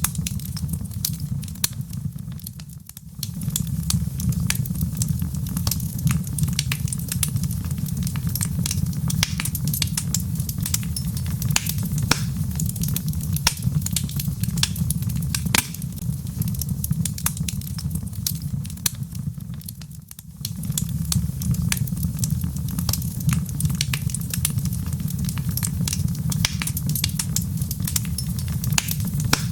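Wood logs burning in a fireplace: a steady low rumble of flame with frequent sharp crackles and pops. The sound dips briefly twice, about three seconds in and again around twenty seconds in.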